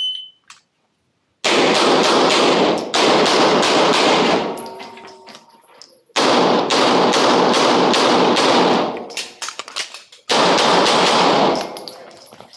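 A shot timer beeps once to start, and then a 9 mm Smith & Wesson M&P9 Pro pistol fires rapid strings of shots. There are four strings with short pauses between them, each shot trailing off in echo.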